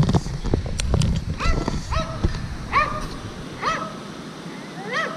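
A dog whining in about five short, high calls, roughly a second apart, each rising and then holding. A low rumbling noise runs under the first half.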